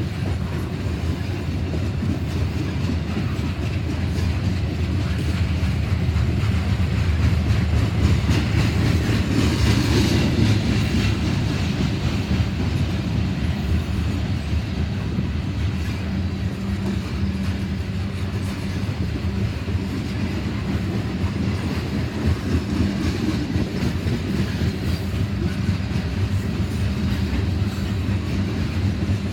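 Loaded Norfolk Southern coal train rolling past, its wheels clicking over the rail joints over a steady low rumble, loudest about a third of the way in.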